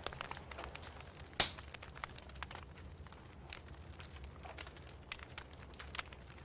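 Wood fire in a fireplace crackling, with irregular sharp pops and snaps, the loudest about a second and a half in, over a low steady hum.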